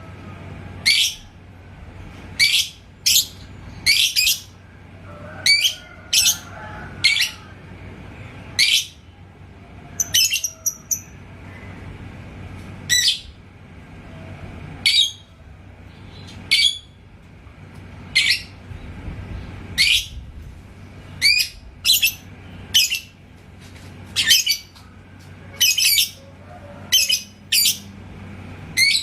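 Lovebird giving short, shrill single calls, about one a second with uneven gaps, not a continuous chattering song.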